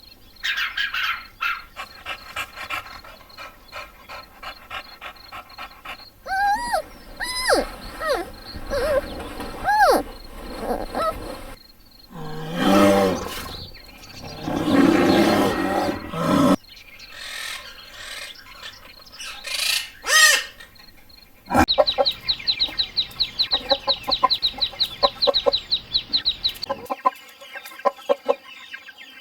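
A run of edited farm-bird clips: chickens clucking and calling, with other bird calls between them. Near the end comes a fast, high, rapid trill.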